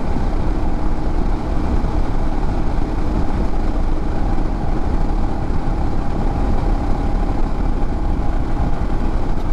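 Royal Enfield Himalayan motorcycle riding steadily on the road: engine running under a constant low rumble of wind and road noise.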